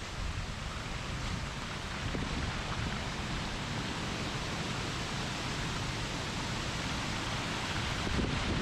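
Wind buffeting the microphone in gusts over a steady rush of falling water from a nearby waterfall, growing slightly louder near the end.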